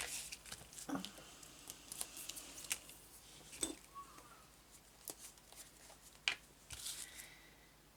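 Faint, scattered rustling, clicks and light taps of paper and craft materials being handled on a table, a few sharper clicks standing out, the busiest stretch ending about seven seconds in.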